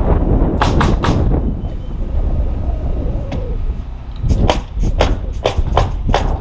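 Hammer blows driving nails in quick runs of about two to three strikes a second, with a pause in the middle broken by a single strike, over heavy wind rumbling on the microphone.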